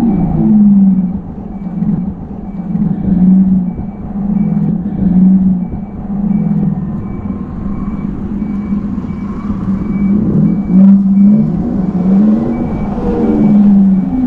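Tarform Luna electric motorcycle riding, its low hum rising and falling in pitch again and again as the throttle opens and closes, over a low rumble. A faint high beep repeats about twice a second through most of it.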